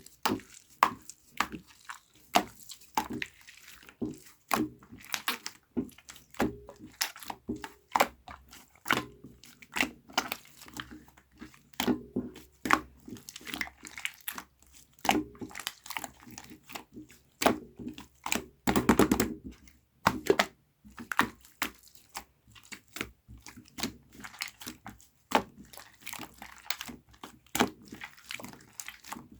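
Slime being squeezed and pressed by hand, making a steady run of sharp sticky pops and clicks, with a dense rapid crackle about nineteen seconds in.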